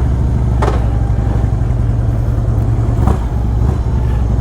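V-twin motorcycle engines idling steadily, with two short sharp clicks, one under a second in and one about three seconds in.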